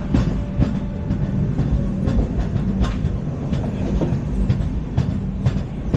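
LHB passenger coach running at speed: its wheels make a continuous rumble on the track, broken by irregular clicks and knocks over the rail joints, with a steady low hum underneath.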